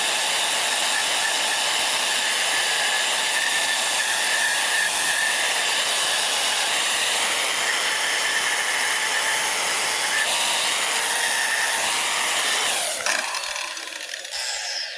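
Electric burnishing tool running against the truck's sheet-metal body, stripping paint and surface rust with a steady, high-pitched grinding hiss. About thirteen seconds in it is switched off and winds down.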